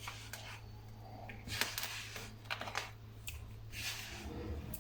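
Hands kneading and gathering soft biscuit dough: faint rubbing and squashing with a few light, irregular clicks.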